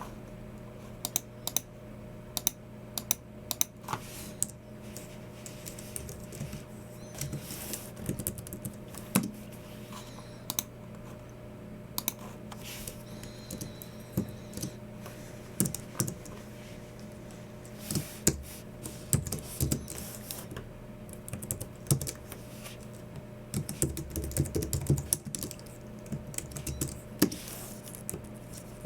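Typing on a Logicool MX Keys Mini low-profile scissor-switch keyboard: irregular runs of soft key clicks broken by short pauses, over a faint steady hum.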